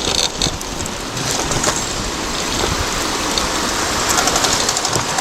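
Bicycle rolling fast down a rough rail trail: a steady rushing tyre noise with the bike rattling over the bumps.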